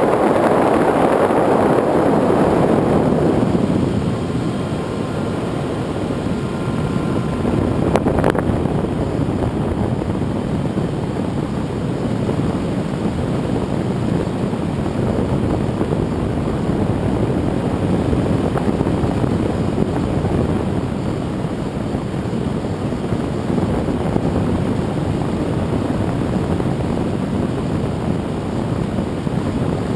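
Propeller and motor of a radio-controlled aerial-photography plane in flight, with wind rushing past, picked up by the camera mounted on the plane. Louder for the first few seconds, then a steady drone, with a faint thin whine partway through and a single click about eight seconds in.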